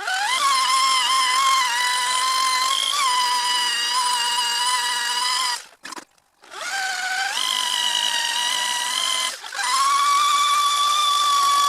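Electric drill fitted with a sanding attachment, sanding a whitewall tire's sidewall. It runs at a steady high whine in three runs, stopping for about a second around six seconds in and briefly again a few seconds later. The pitch rises as the motor spins up at each start.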